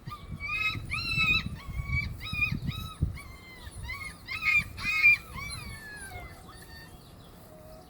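Puppies whining and yipping: a rapid string of short, high-pitched cries, about two or three a second, trailing off after about five seconds, over low rumbling and rustling.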